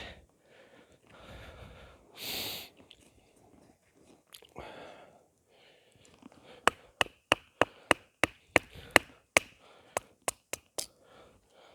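Hazel baton knocking on the spine of a Mora knife to split kindling: a quick run of about seventeen sharp wooden knocks, roughly three a second, starting a little past halfway. Before them, a short breathy sound.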